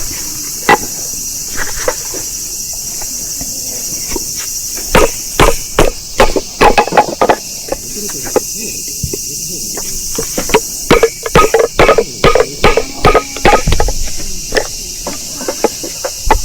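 Firewood being split by hand: sharp wooden knocks, a few single strikes and then quick runs of several strikes, over a steady chorus of crickets.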